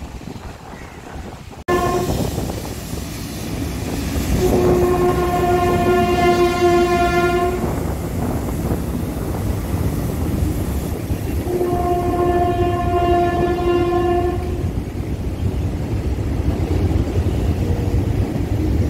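Wind on the microphone, then from about two seconds in a train crossing a steel truss bridge with a steady rumble. The locomotive's horn gives two long blasts of about three seconds each, several seconds apart.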